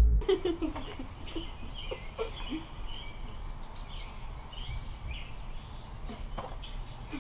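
Birds chirping and calling throughout, many short rising and falling chirps, with a low thump at the very start.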